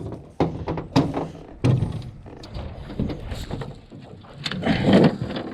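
Irregular knocks and thumps as a small catfish is swung aboard without a net and flops and is handled against the boat.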